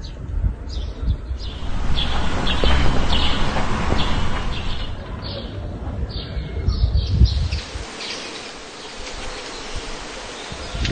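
Small birds chirping: many short, high calls in quick succession over a low rumble. The rumble drops away about three quarters of the way through.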